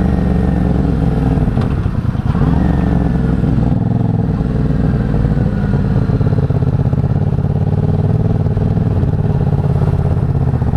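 Motorcycle engine running while riding, its note changing in steps a couple of times, about two and four seconds in.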